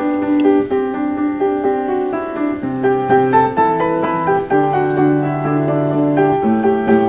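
Background piano music: a melody of separate notes over held bass notes.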